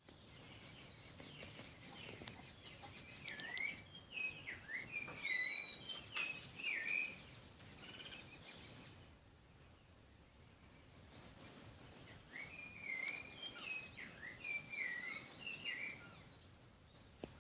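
A songbird singing quick, warbling phrases of rising and falling chirps, in two bouts with a short pause between, over faint outdoor background noise.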